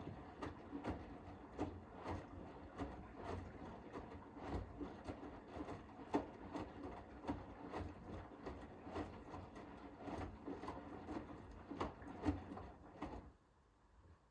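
Hoover H-WASH 500 front-loading washing machine tumbling a load in its drum: irregular soft thuds and clicks of the laundry falling, several a second, over the hum of the drum motor. The drum stops suddenly near the end, the pause before it reverses.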